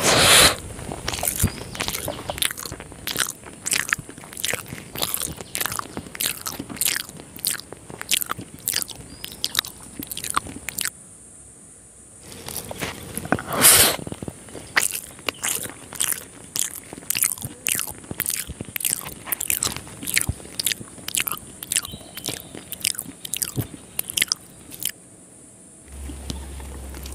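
Close-miked mouth sounds of a person eating rice and egg curry by hand: quick, irregular chewing with wet smacks and clicks. Louder bursts at the start and about halfway through, as a handful goes into the mouth, with short pauses in the chewing near the middle and near the end.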